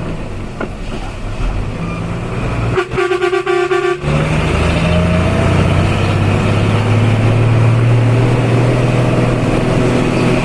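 Truck engine pulling hard up a steep climb, with the horn sounded once for about a second, some three seconds in. After the horn the engine runs louder and steady.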